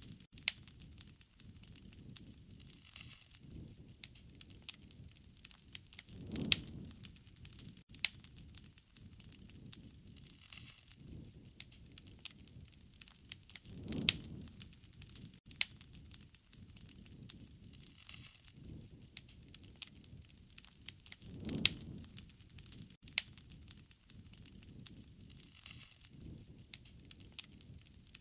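Wood fire crackling and popping, with dense sharp snaps throughout. A low rushing swell rises about every seven to eight seconds.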